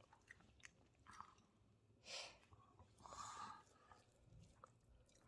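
Faint sounds of a meal at the table: quiet chewing and small scattered clicks, with two soft breathy swells about two and three seconds in.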